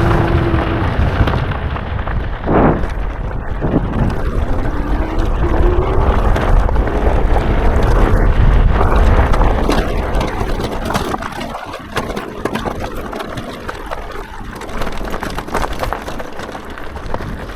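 Wind buffeting the microphone while riding an e-bike, with the 1000 W motor's whine rising as the throttle is opened a few seconds in.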